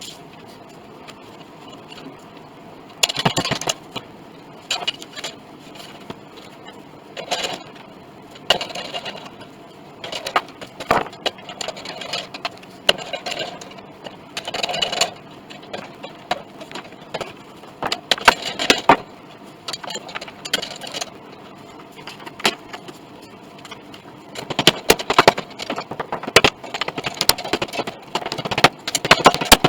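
A hand tool working soft wood: irregular scraping strokes about half a second to a second long, with occasional sharp clicks, coming thicker near the end.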